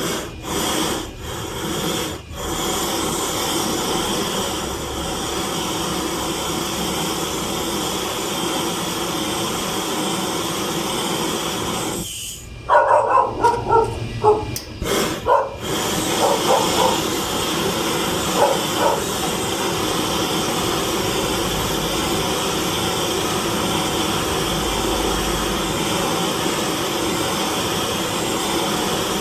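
Gas torch flame hissing steadily as it heats a bent aluminium mag wheel to soften it before pressing. Around halfway through, a string of short, loud, pitched calls cuts in over the hiss.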